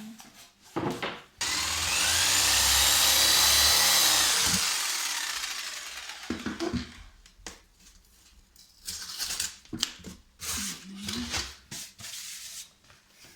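Electric jigsaw cutting gypsum board for about three seconds, its motor whine falling as it is switched off. Scattered knocks and scraping follow.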